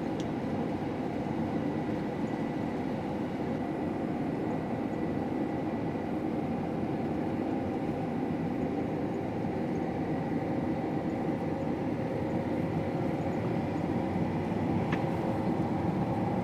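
Combine harvester running steadily while cutting wheat: a constant heavy machine drone with a faint steady high whine.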